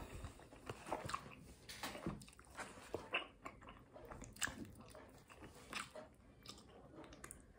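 A person chewing a mouthful of chicken wrap in a flour tortilla, with short, irregular mouth smacks and clicks.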